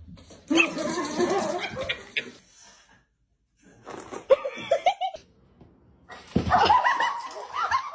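A person laughing, in three separate stretches with short silent gaps between them.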